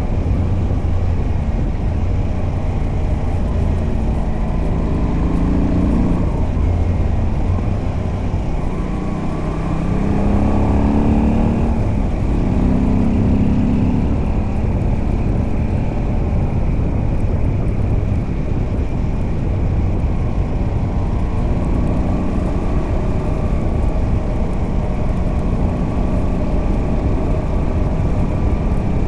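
Moto Guzzi V85TT's air-cooled V-twin, fitted with a decat pipe on the stock exhaust, running as the bike is ridden. The revs ease off briefly about a third of the way in, then climb again under acceleration before settling to a steady run.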